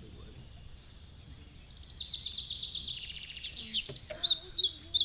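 A songbird singing: a fast, high trill that slides down in pitch, then a series of loud, sharp chirps.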